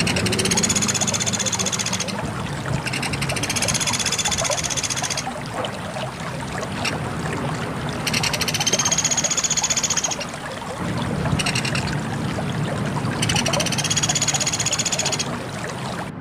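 Pelatuk beras woodpecker calling: four long, high, rapid trilling calls, each about two seconds, a few seconds apart, over a steady rushing background noise.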